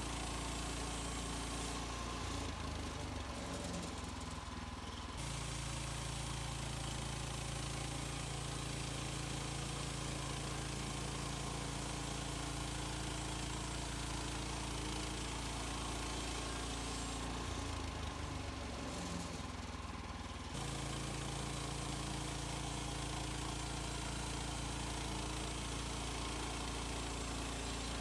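Gas engine of a Woodland Mills HM130 Max portable bandsaw mill running steadily while milling white pine. Its note changes twice for a few seconds and then snaps back.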